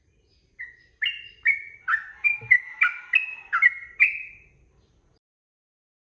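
Sooty-headed bulbul (trucukan) singing one short phrase of about ten quick, rich notes over about four seconds.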